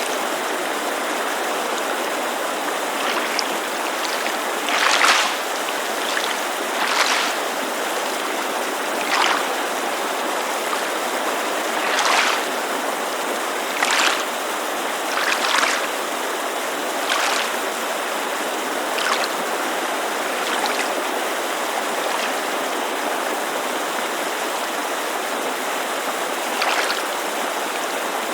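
Small waves lapping against a lake shore, a soft splash every second or two with a pause of several seconds in the second half, over the steady rush of a mountain creek.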